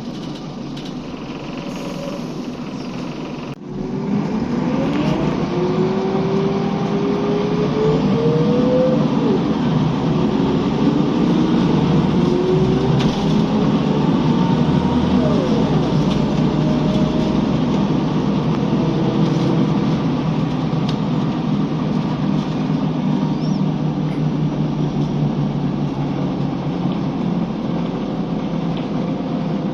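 Scania L94UB bus's diesel engine pulling away and accelerating: after a brief dip about three seconds in, it gets louder and its pitch climbs, drops back at a gear change, and climbs again before settling into steady running.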